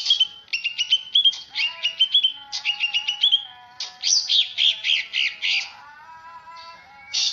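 A cucak songbird (the Indonesian name for bulbuls and leafbirds kept for song) singing: fast strings of sharp chirps in repeated phrases, pausing briefly near the end.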